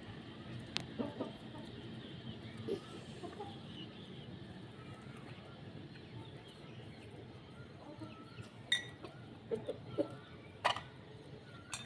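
Aseel chickens clucking softly, with a few sharp clicks near the end.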